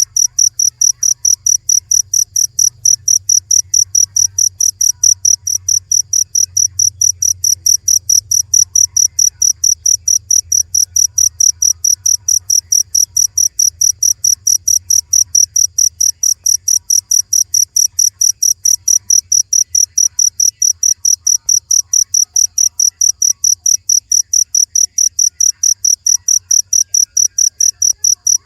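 Cricket chirping in a loud, even, unbroken rhythm of short high-pitched pulses, several a second, with a faint low hum beneath.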